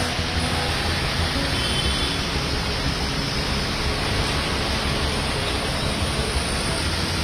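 Heavy rain: a steady rushing hiss with a low rumble underneath.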